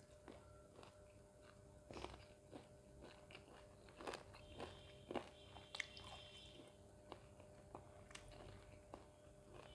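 Quiet close-up chewing and biting of mutton and roti, with scattered wet mouth clicks and a few louder crunchy bites.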